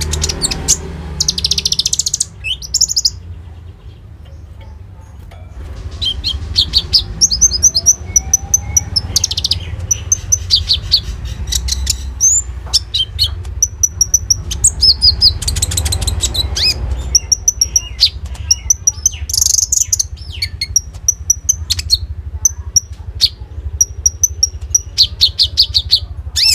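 A caged konin songbird singing loudly in phrases of sharp chirps and fast trilling runs, with a short lull a few seconds in. Its song is full of imitated phrases of other birds, the 'isian' that kicau keepers train into it.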